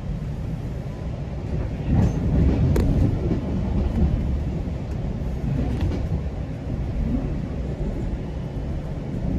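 GO Transit commuter train running on the rails: a steady low rumble of wheels on track, with a few sharp clacks from about two to six seconds in.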